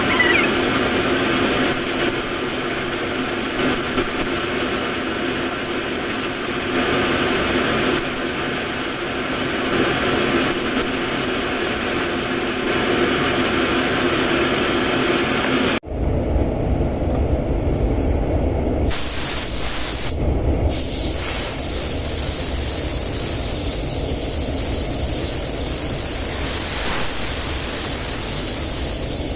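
Steady hiss of compressed air from spray painting, with a spray gun and paint-booth air running. About halfway through the sound changes abruptly to a brighter hiss over a low rumble.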